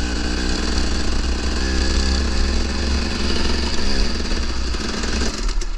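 KTM 300 two-stroke dirt bike engine running under way, its revs rising and easing a few times.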